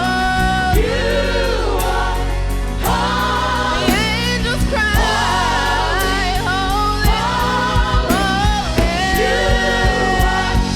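Gospel worship choir singing with band accompaniment: several voices holding and bending sung notes over a bass line and a steady drum beat.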